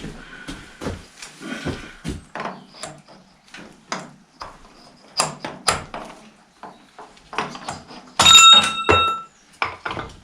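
Steel tractor parts knocking and clattering in a string of irregular knocks, with one loud ringing metal clang about eight seconds in that rings on for about a second.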